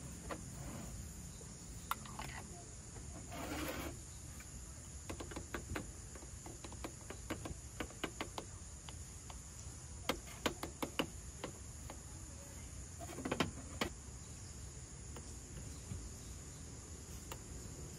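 Faint outdoor ambience with a steady high-pitched insect drone, over scattered light clicks and knocks and two short rustling bursts about three and thirteen seconds in.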